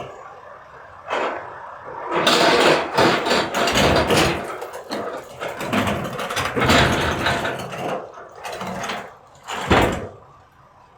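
Load of recyclables crashing and clattering into a garbage truck's hopper as a container is dumped, for several seconds, ending with one sharp bang about ten seconds in.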